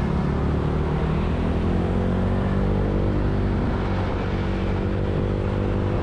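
Motorcycle engine running steadily in traffic, its pitch slowly rising as it picks up speed, over a constant low road and wind rumble.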